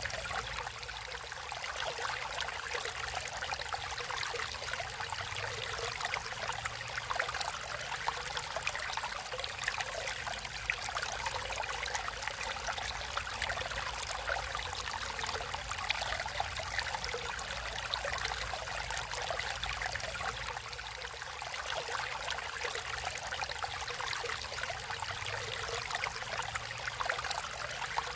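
Water flowing and trickling steadily over rocks in a stream, with a bubbling, splashing texture and a low rumble beneath.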